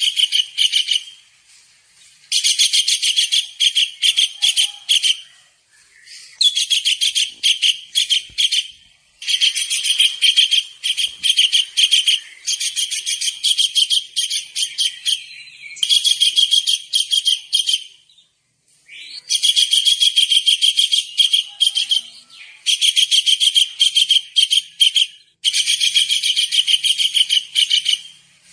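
Kingfisher (tengkek udang) calling vigorously: repeated bursts of rapid, high, shrill notes, each burst lasting one to three seconds, with short pauses between them.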